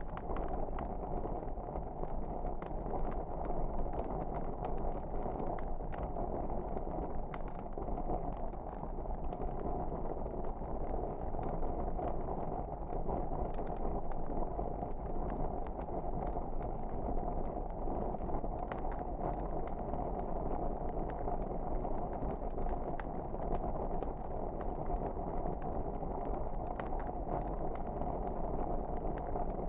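Wood fire crackling: a steady low rush of flame with frequent small pops and snaps.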